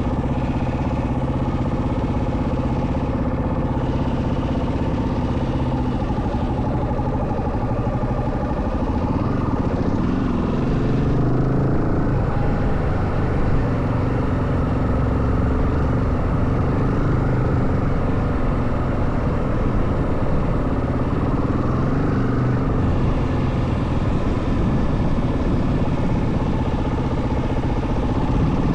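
Yamaha WR450F dirt bike's single-cylinder four-stroke engine running under way, holding a steady note with the revs rising and falling a few times.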